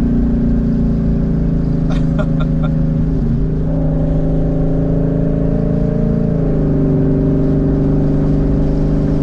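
Twin-turbo Mustang engine running loud through open exhaust dumps, heard from inside the cabin. The engine note steps up in pitch about a third of the way in and drops back about two-thirds in, and a few short sharp pops or clicks come about two seconds in.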